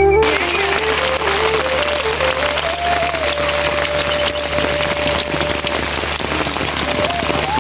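Heavy rain falling steadily, a dense patter of drops, with a soft flute melody playing over it.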